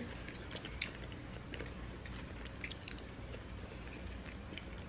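People chewing and biting into sandwiches: soft, irregular wet mouth clicks and smacks, with a bite into a sandwich near the end.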